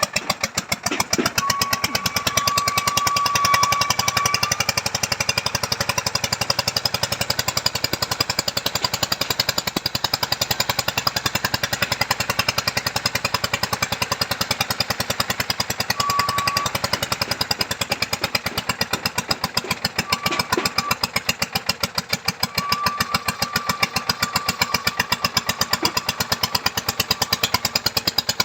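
Small engine of a machine earth auger running steadily with a fast, even pulsing beat while drilling a foundation hole. A thin high whine comes and goes a few times.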